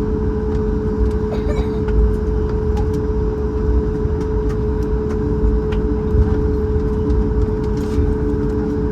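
Cabin of a Boeing 737 MAX 8 with its CFM LEAP-1B engines at idle while lining up for takeoff: a steady low rumble with a constant droning tone.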